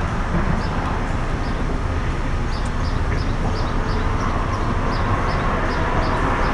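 Steady low rumbling noise, with a regular run of faint high-pitched chirps or ticks, about three a second, starting about two and a half seconds in.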